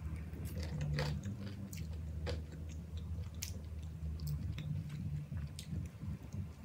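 A person biting into and chewing a mouthful of pre-cooked chicken patty, with uneven small crunches and mouth clicks.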